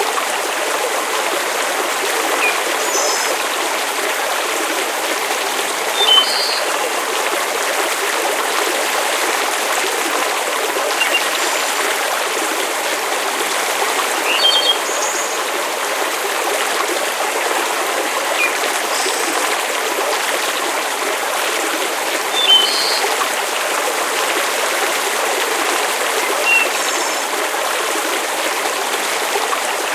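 Steady rushing hiss of water, with short high chirps every few seconds.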